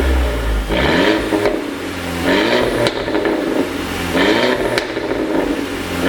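Mercedes-Benz CLA250's 2.0-litre turbocharged four-cylinder revved three times, the engine note rising and dropping back each time. Two sharp pops come from the exhaust as the revs fall: the crackle of a 'pop sound' tune.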